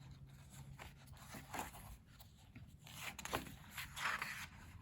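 Pages of a photobook being turned: a few soft paper swishes, with a longer rustle near the end.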